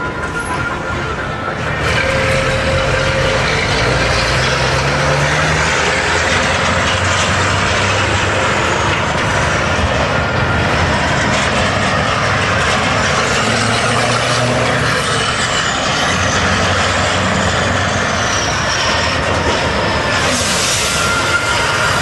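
Scania V8 diesel truck engine running under way, its pitch stepping up and down, with a high whistle that rises and falls twice. A brief hiss comes near the end.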